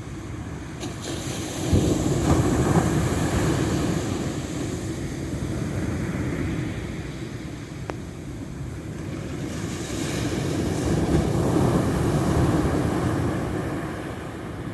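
Ocean surf: waves washing in, swelling loudest about two seconds in and again around ten to twelve seconds.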